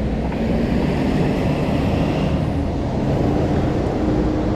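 Steady low rumble of wind buffeting the microphone while cycling, mixed with the hum of motor traffic on city streets; a faint engine tone rises slightly near the end.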